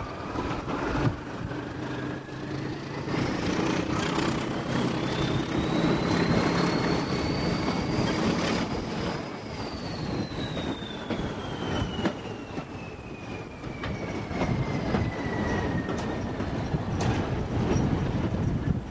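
Train hauled by the GER N7 steam tank locomotive running on the rails. A thin, high squeal rises steadily in pitch for about nine seconds, then falls away and fades near the end.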